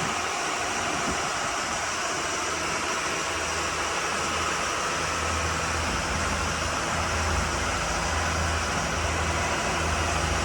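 Bayliner 4788 motor yacht's twin inboard engines running steadily underway at cruising speed: a low drone that firms up about halfway through, under a steady broad rush.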